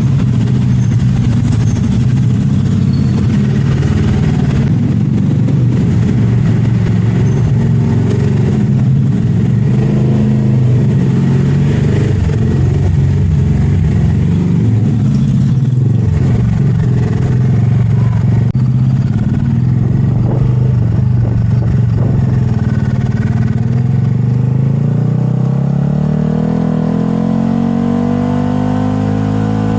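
Motorcycle engine running at a steady speed, then revving up and rising in pitch over the last few seconds.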